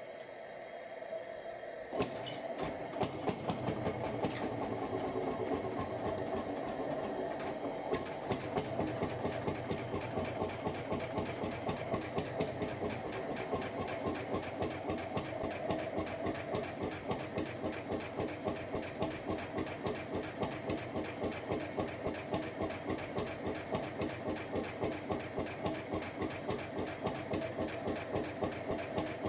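Lanz Bulldog HR8's single-cylinder two-stroke hot-bulb engine firing up. It catches about two seconds in, runs unevenly for a few seconds, then settles into a steady, even beat.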